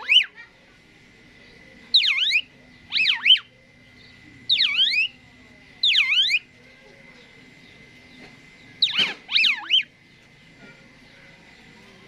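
Asian pied starling (jalak suren) giving a series of about seven loud, downward-sweeping calls, one every second or so, falling silent about ten seconds in.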